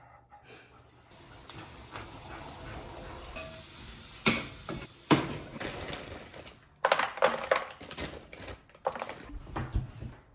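Kitchen utensils clinking against dishes and pans over a steady hiss, with a few sharp clinks around the middle and a quick run of them later on.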